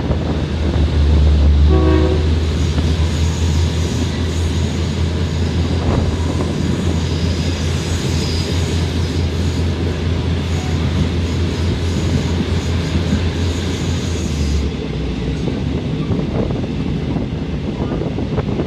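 Thai State Railway train running, heard from on board: a loud, steady low engine drone over continuous rolling noise, with a brief horn note about two seconds in. The drone cuts off suddenly near the end, leaving the rolling and rushing noise.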